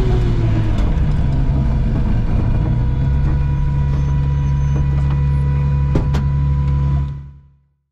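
BMW E36 rally car's engine running steadily, heard from inside the stripped cabin, with two sharp knocks about six seconds in. The sound fades out near the end.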